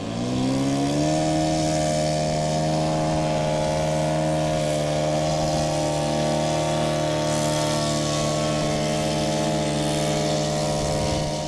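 Radio-control model airplane's engine and propeller revving up from idle over about a second, then held at a steady high throttle, and throttling back near the end.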